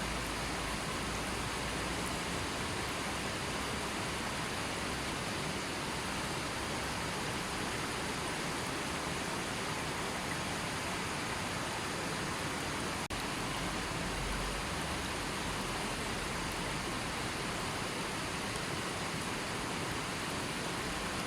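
Steady, even rush of a gently flowing river, with no birds. One faint click about thirteen seconds in.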